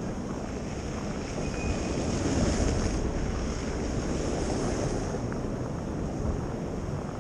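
A car driving past on a snow-covered street, its tyres hissing through slush; the sound swells to a peak about two and a half seconds in, then fades.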